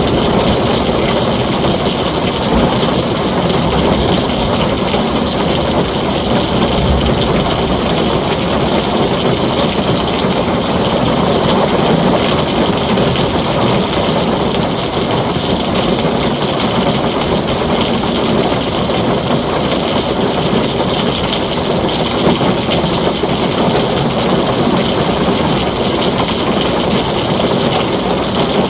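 Heavy rain pouring steadily onto a tin roof, a dense continuous hiss with a low rumble underneath.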